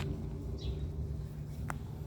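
Low, steady hum of an engine running, with a short chirp about half a second in and a sharp click near the end.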